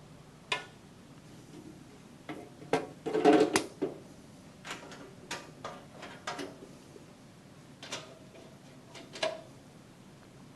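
Scattered knocks, clicks and a short clatter of metal parts being handled on a bandsaw, the loudest cluster about three seconds in, then single knocks every second or two.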